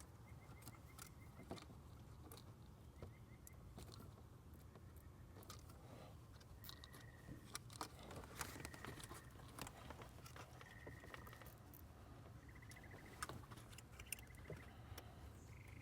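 Near silence, with faint scattered clicks and rustles of hands handling wiring and plastic parts, and a faint short high beep that recurs every second or two.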